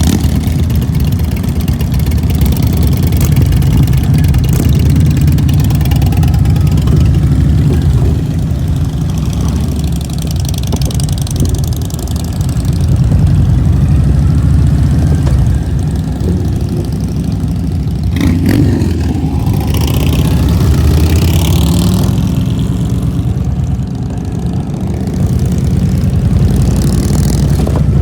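Motorcycle engine running under way, its level swelling and easing off several times.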